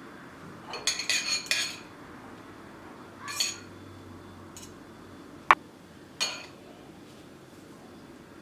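Kitchen utensils and dishes clinking: a quick run of clinks about a second in, then a few single knocks and one sharp click over the next few seconds.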